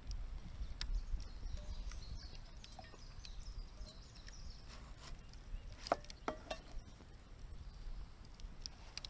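Quiet outdoor ambience: a low rumble under scattered sharp clicks, with faint short high chirps every second or two.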